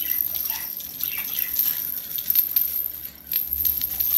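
Plastic maraca bird toy rattling, with its small metal chains jingling, as it is handled: a dense run of irregular clicks and clinks.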